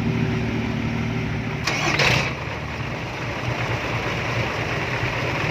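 Heavy diesel engine of a construction vehicle running steadily with a low rumble, with a short burst of hissing noise about two seconds in.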